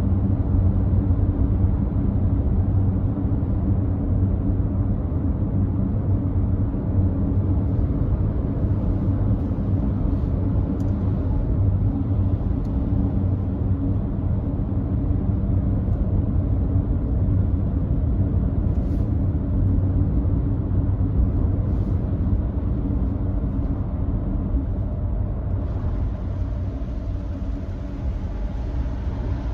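Older-model Nissan Note e-POWER cruising on a wet highway: a steady, low road-and-tyre rumble that holds level throughout, with a few faint ticks.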